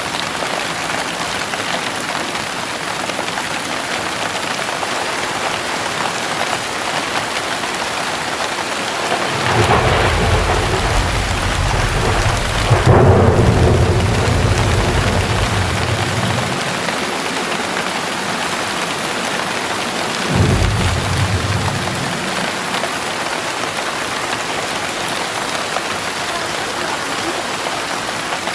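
Heavy rain falling steadily, with a long rumble of thunder that builds about a third of the way in, peaks and slowly fades, then a second, shorter rumble about two-thirds through.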